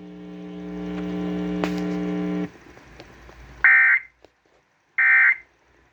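Emergency Alert System broadcast ending: a steady low buzz that cuts off about two and a half seconds in, then two short, screechy end-of-message data bursts about a second and a half apart.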